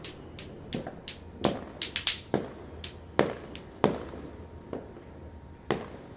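Distant New Year's fireworks bursting: scattered sharp bangs at irregular intervals, each with a short echoing tail, with a quick flurry of bangs about two seconds in.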